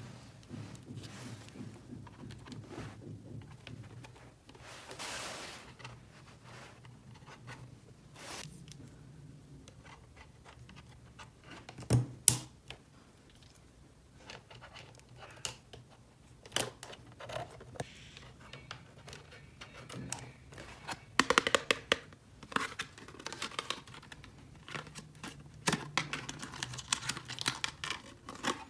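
Small plastic toy pieces being handled and clicked together: scattered light taps and clacks, a short rustle about five seconds in, a louder clack about twelve seconds in, and a quick run of clicks around twenty-one seconds.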